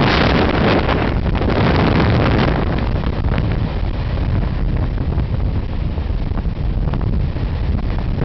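Mumbai suburban local train running at speed, heard from its open doorway: a loud, steady rush of wind and running noise with wind buffeting the microphone. It is loudest and harshest for the first two and a half seconds, in a dark covered stretch of line, then eases to a duller rush in the open.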